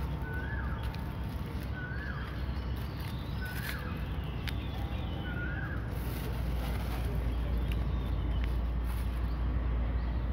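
A bird repeats a short chirp about every second and a half through the first half, over a steady low rumble with a few faint clicks.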